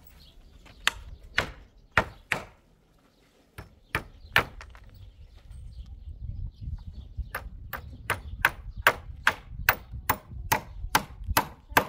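Sharp striking blows, a few scattered at first, then a steady run of about two to three blows a second in the second half.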